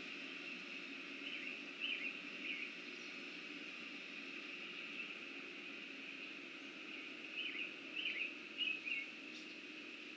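Outdoor pond ambience: a small bird chirps three times about a second and a half in, and again in a group of three or four around eight seconds in, over a steady high-pitched drone.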